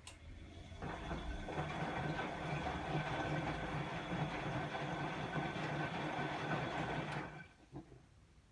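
Bosch WAE24162GB03 washing machine's motor turning the drum during the rinse: a click, then a steady hum with a mechanical whine for about six seconds that stops suddenly, followed by a faint click.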